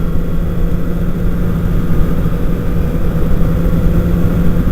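Sport motorcycle cruising at a steady speed: a 2008 Kawasaki Ninja ZX-6R's inline-four engine holds one even note over a heavy, steady low rumble.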